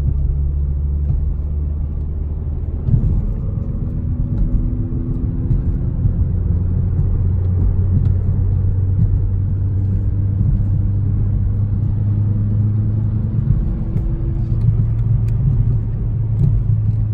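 2012 Chevy Cruze's 1.4-litre turbo four-cylinder, its muffler and resonator deleted for a straight-pipe exhaust, running with a deep rumble. The revs step up about three seconds in and then hold steady at about 3,000 rpm.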